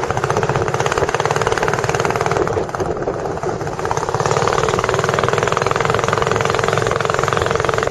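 Tourist boat's engine running steadily, with a fast, even pulsing beat.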